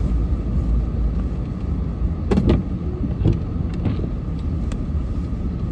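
Pickup truck engine running under load, heard from inside the cab while the plow pushes snow, with a few short knocks and clunks around the middle.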